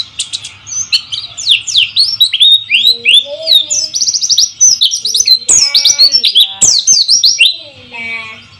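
White-eye (pleci) singing: rapid runs of high, fast sweeping chirps that break off near the end. There are a few lower calls among them, and a faint steady hiss under the song.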